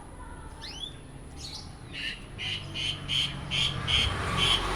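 A caged songbird calling: two rising chirps, then from about two seconds in a fast run of sharp repeated 'cek' notes, about three a second, growing louder.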